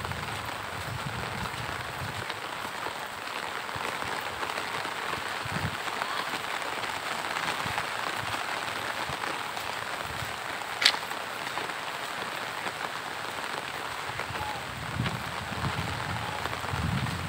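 Steady rain falling on the ground and vegetation: a constant even hiss. One sharp click stands out about eleven seconds in.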